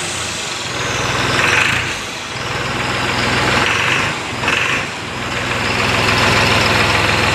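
New Holland 3630 special edition tractor's diesel engine running at idle after a repair. Its loudness dips and swells a few times, with short hissy bursts about a second and a half and four and a half seconds in.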